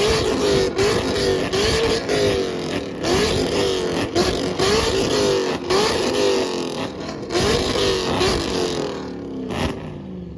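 A Dodge Hellcat's supercharged V8 and a C7 Corvette's V8 being revved together in a rev battle, blipped over and over about every three-quarters of a second. The revving dies away just before the end.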